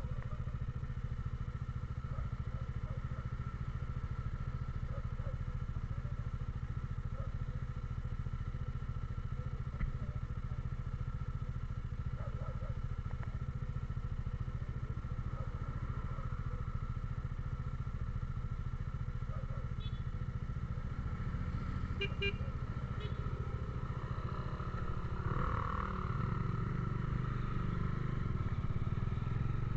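Motor vehicle engine running steadily while travelling on the road, a constant low drone that grows a little louder near the end.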